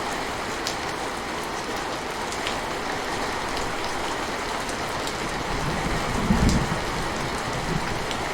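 Steady rain falling, an even hiss with scattered drop ticks, and a brief low rumble about six seconds in.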